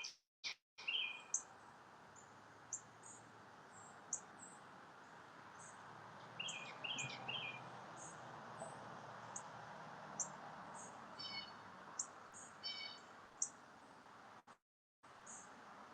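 Small birds chirping: many short, high chirps and a few quick chirp series over a steady background hiss. The sound cuts out completely for a moment near the start and again near the end.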